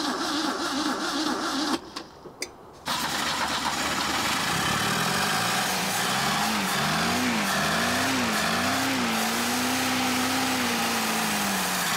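Old Moskvich four-cylinder engine being cranked and catching, then running; about halfway it is revved up and down several times, held at a fast idle, and the revs fall away near the end. This is its first start after a replacement distributor restored the spark, cranked with a jump starter.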